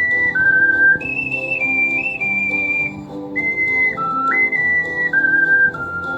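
Soprano C ocarina playing a slow melody in A minor, with clear, nearly pure held notes that step up and down, over a chordal backing accompaniment.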